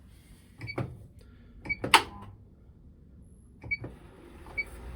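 Electrolux Quickwash commercial washing machine's control panel giving short high beeps as its buttons are pressed, four times, each with a click, and one loud sharp click about two seconds in. A steady low noise from the machine starts up near the end.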